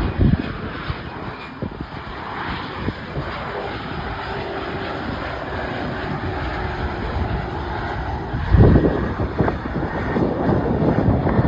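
Bombardier CRJ-700 regional jet on its landing pass, its two rear-mounted turbofan engines giving a loud, steady jet noise with faint whining tones. A heavy low buffeting comes about eight and a half seconds in.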